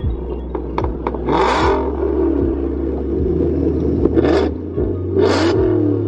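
Car engines revving, with pitch glides rising and falling, and three short rushing bursts of noise.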